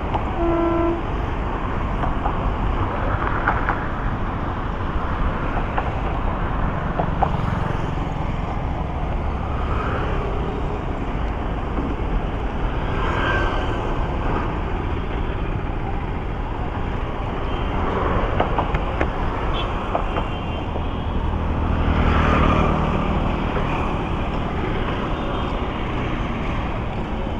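Motorcycle riding through busy city traffic: steady engine and road noise, with a vehicle horn sounding briefly right at the start and another engine rising in level around the twenty-two-second mark.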